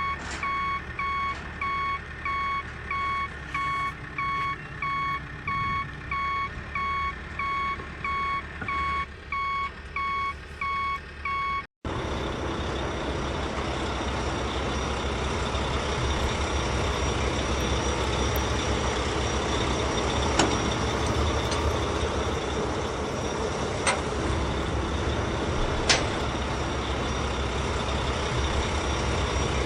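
A truck reversing alarm beeping steadily, about two beeps a second, cutting off abruptly about twelve seconds in. A steady truck engine running takes over, with a few sharp clicks near the end.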